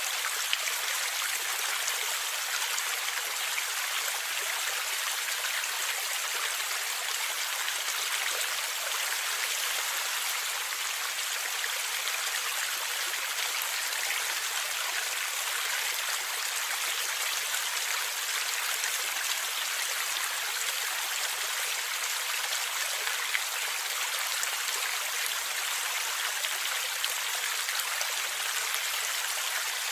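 A stream of water flowing and gurgling steadily, an even splashing hiss with a few small drips and plinks.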